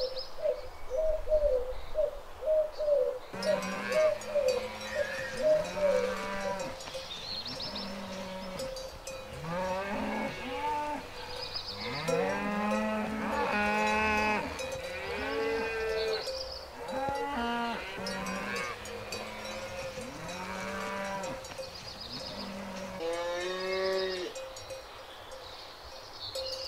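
Several cows mooing, long calls that overlap one another and rise and fall in pitch. In the first three seconds, before the mooing starts, there is a quick run of short, evenly spaced ringing notes.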